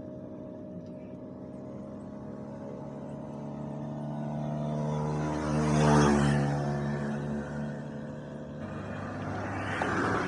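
Motorcycle engine running at a steady speed, its hum swelling to its loudest about six seconds in and then easing off, with a smaller swell near the end.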